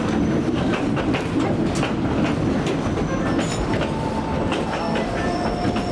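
Tweetsie Railroad's narrow-gauge passenger cars rolling along, a steady rumble with wheels clicking over the rail joints. Faint wheel squeal comes in during the second half.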